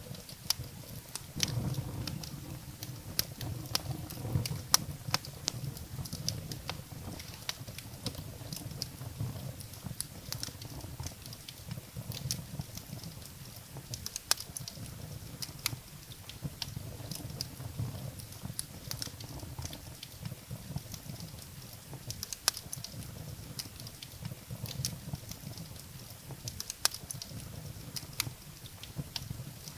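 Wood fire burning in a fireplace: firewood crackling with irregular sharp pops and snaps over a low, steady rumble of the flames.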